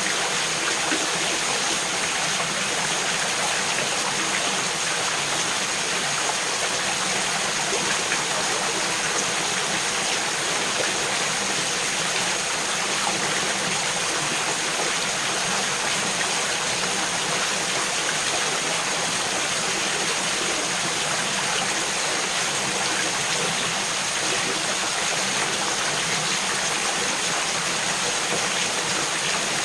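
A mountain stream babbling and splashing over small falls and rocks in a steady, unbroken rush of water.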